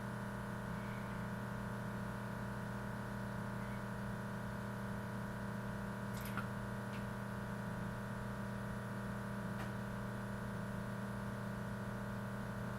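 Keurig K-2550 coffee maker's water pump running with a steady hum, drawing water from the reservoir to fill the internal hot water tank during first-time setup.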